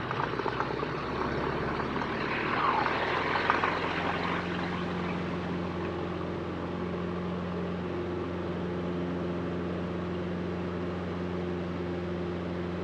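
Cessna 172RG Cutlass's four-cylinder Lycoming engine and propeller at takeoff power during the takeoff roll. It settles into a steady drone after about four seconds.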